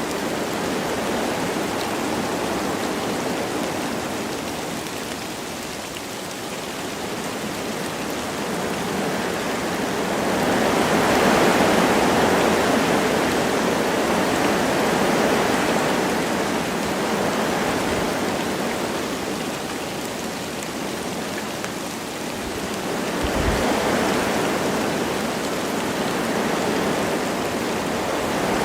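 Wind rushing through forest trees with light rain falling, a steady rush that swells in gusts, once about a third of the way in and again near the end.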